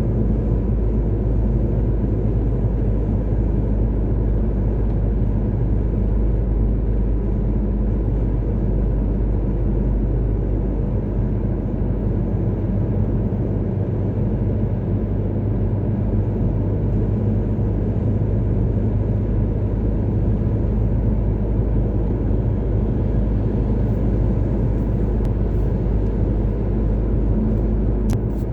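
Steady low rumble of a car driving along a motorway: engine and tyre-on-road noise at an even cruising speed.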